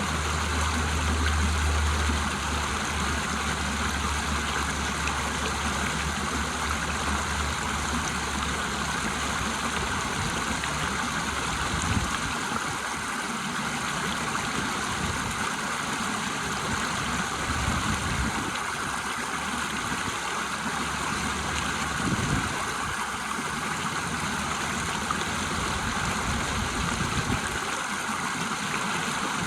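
River water rushing over a waterfall: a steady, even rush of flowing water, with a low rumble underneath for roughly the first twelve seconds.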